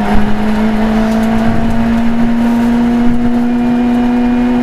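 Rally car engine heard from inside the cockpit, running flat out at a nearly steady high pitch along a straight.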